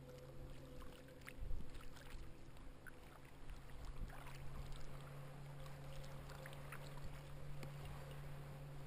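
Water splashing and lapping around a kayak as it is paddled, over a steady low hum. A dull thump comes about a second and a half in.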